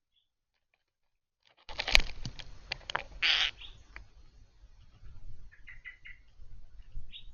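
Small birds at a bird table: after a short silence, a run of sharp taps and a brief rustling burst, then a few short chirps near the end.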